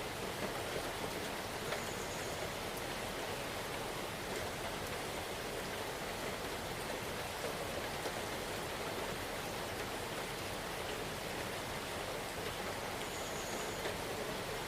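Steady rain falling in a forest, an even hiss of many drops without a break.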